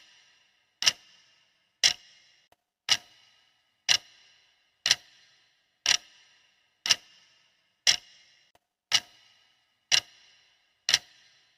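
Clock ticking steadily, one sharp tick a second, each with a short ringing tail: a countdown timer's tick sound.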